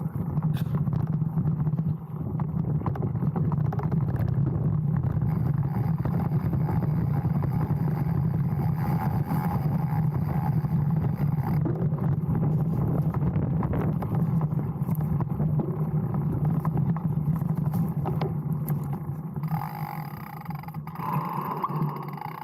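Specialized Stumpjumper mountain bike riding down a dirt trail, heard from a handlebar-mounted camera: steady tyre rumble over the ground with constant rattling and knocks from the bike jolting over bumps. The noise eases off near the end.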